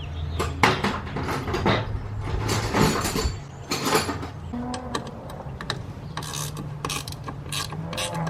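A ratchet wrench clicking, with other hand tools clanking on metal, while a turbo blow-off valve is taken off the engine.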